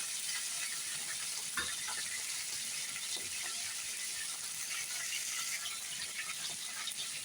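Chicken leg pieces frying in plenty of hot oil in a karahi over high heat: a steady sizzle with scattered crackles and a sharper pop about a second and a half in.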